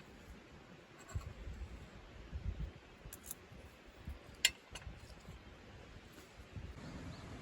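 Camp handling noise: low bumps and a few sharp clicks or clinks, a pair about three seconds in and a single one about four and a half seconds in.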